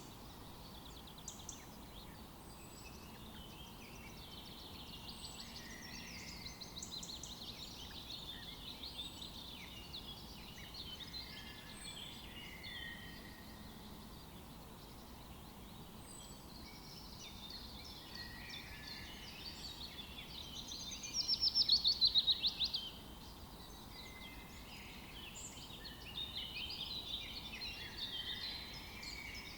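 Several wild birds chirping and singing in overlapping short calls and trills over a faint steady background. About two-thirds of the way through, one bird gives a louder rapid series of notes lasting about a second and a half, the loudest sound here.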